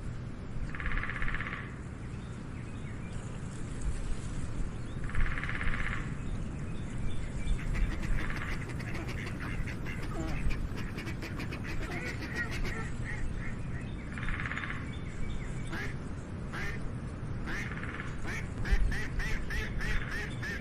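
An animal calling three times, each call about a second long and rattling in texture, with scattered clicks and short chirps from about a third of the way in, over a steady low rumble.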